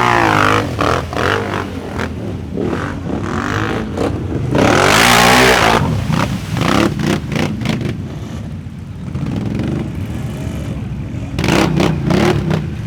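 ATV engine revving hard under load, rising and falling in pitch, loudest about five seconds in, with a run of rattling clatter.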